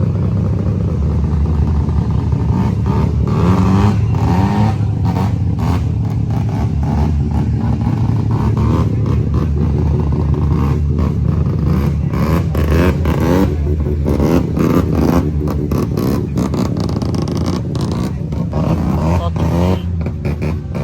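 Car engine running steadily close by, with a couple of short revs that rise in pitch a few seconds in.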